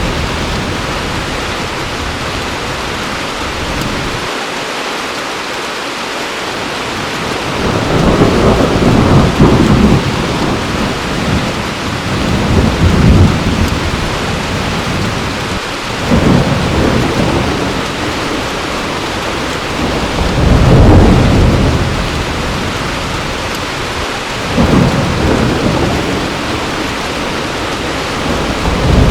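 Steady heavy rain with rolls of thunder rumbling in and fading out again and again, about five swells of low rumble.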